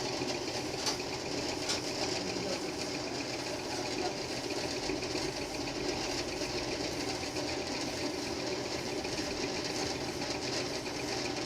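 Lathe running steadily while its boring tool cuts the bore of a Bajaj CT-100 motorcycle cylinder block, a constant machine drone with a fine even rhythm and two light clicks in the first two seconds.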